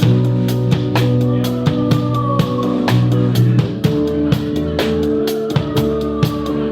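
Rock music: a band playing held guitar and bass notes over a drum kit keeping a steady beat.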